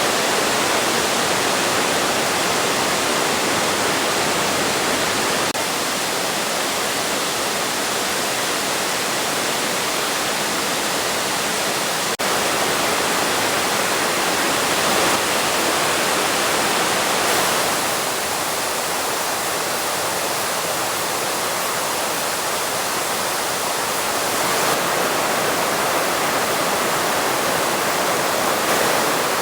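Waterfall: a steady, loud rush of falling water, its tone shifting slightly a few times.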